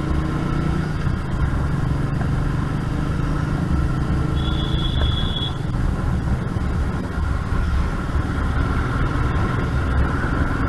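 Royal Enfield Meteor 350's single-cylinder engine running steadily on the road, a low even drone with road noise. A brief high beep sounds a little over four seconds in.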